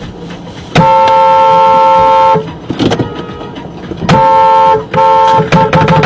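Vehicle horn honking: one long blast of about a second and a half, two shorter blasts, then a rapid string of short toots near the end.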